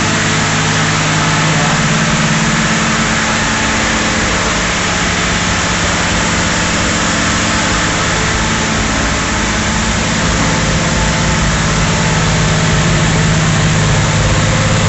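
1964 XM Ford Falcon's straight-six engine, freshly reconditioned, idling steadily and sounding beautiful.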